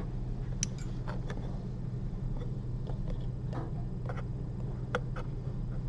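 Scattered light clicks and ticks of metal surgical instruments being handled and worked on a 3D-printed heart model, over a steady low hum.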